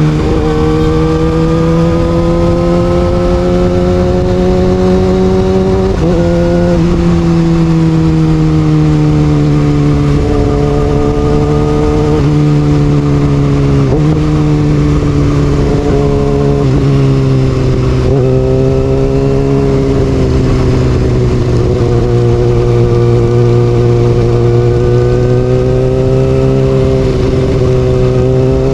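Kawasaki Ninja ZX-6R inline-four with an aftermarket Austin Racing exhaust, running under way at fairly steady revs. Its pitch drifts slowly and jumps briefly several times as the throttle and revs change.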